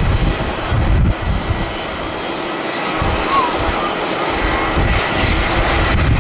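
Jet airliner engines running at an airport, a steady wide roar, with strong wind gusts buffeting the microphone in heavy low rumbles.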